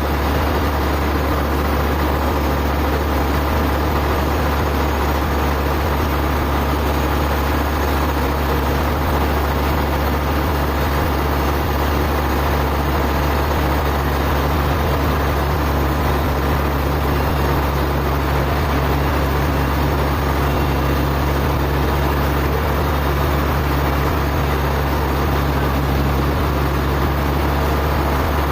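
Sawmill machinery running with a steady, unchanging low hum, with no change in load over the whole stretch.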